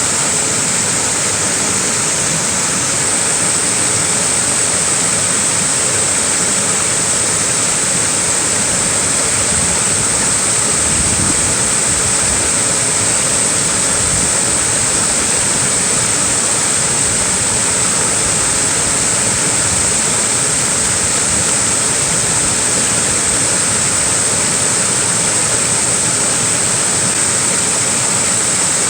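Small waterfall pouring steadily, a constant loud rush of falling water with a bright hiss.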